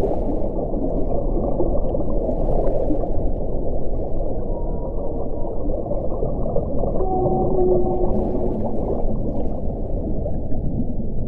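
Wind blowing steadily as a low rushing noise, with brief low tones that swell and fade now and then.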